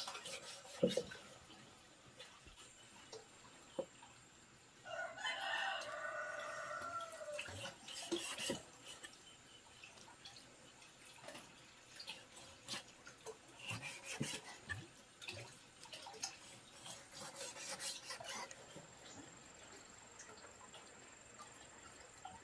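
A rooster crows once, about five seconds in, with one long call that drops in pitch at the end. Scattered sharp clicks and taps of handling sound come and go around it.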